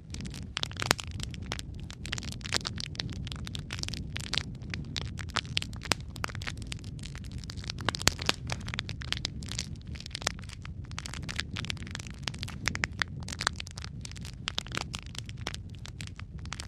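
Wood fire burning in a fireplace: irregular sharp crackles and pops from the logs, several a second, over a steady low rumble of the flames. One louder pop comes about eight seconds in.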